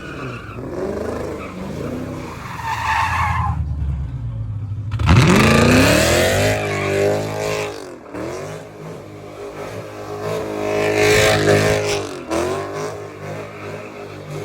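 A car engine revving hard, with tires squealing as they spin and skid. After a brief drop about four seconds in, the revs climb steeply, then fall and rise again twice.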